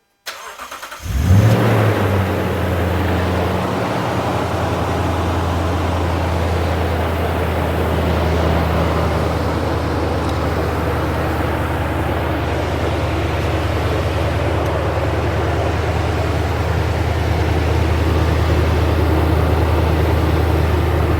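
2010 Toyota Tundra's 4.6-litre V8 cranked by the starter and catching about a second in, flaring briefly, then settling into a steady idle. It is the first start after an oil change with fresh oil, run to check for leaks.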